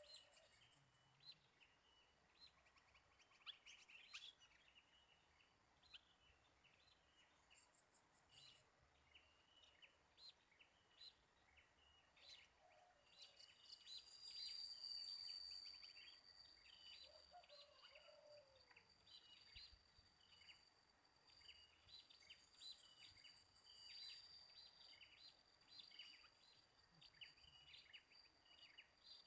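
Faint, quick chirps of sooty-headed bulbuls (kutilang) repeating over and over, with a steady high-pitched whine joining about halfway through.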